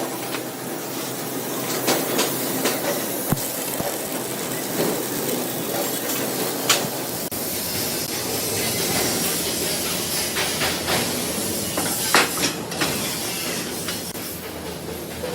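Factory workshop noise: a steady hiss with scattered sharp metallic knocks.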